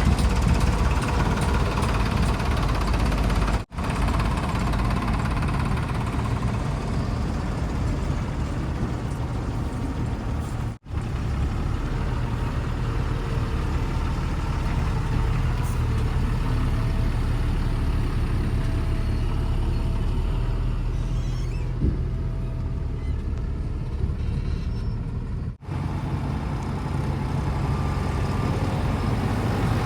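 Heavy diesel engine running steadily with a low rumble. The sound breaks off briefly three times, at about 4, 11 and 26 seconds in.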